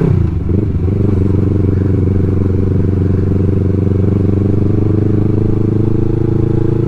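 Yamaha R3's parallel-twin engine running: the revs drop during the first second, then hold steady.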